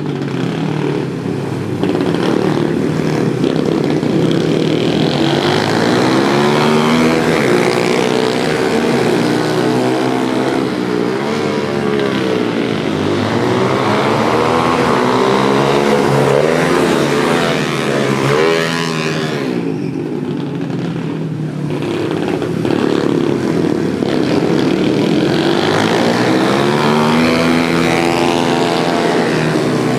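Several pit bike engines racing, revving up and down as the bikes accelerate, shift and pass, with their pitches overlapping and rising and falling throughout.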